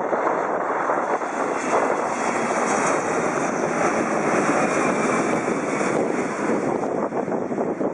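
Airliner passing overhead on its Haneda approach or departure: a steady rush of engine noise that grows fuller and brighter through the middle and eases near the end.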